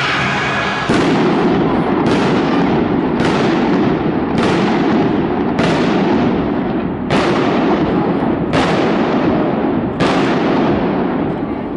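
Fireworks display: about eight loud bursts, one every second and a half or so, each trailing off over a continuous crackle. Music dies away in the first second.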